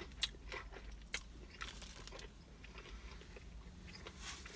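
A person biting into and chewing a mouthful of KFC breaded fried chicken, with a few sharp crunches, the loudest just after the start and about a second in, then quieter chewing.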